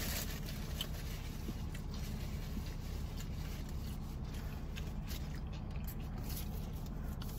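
Faint chewing and mouth sounds from eating a fast-food chicken sandwich, with small scattered clicks and scrapes, over a steady low hum.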